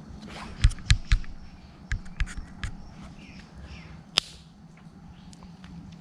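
Thin sticks snapped by hand for kindling: sharp cracks, three in quick succession, then four more, then one last single snap near the end.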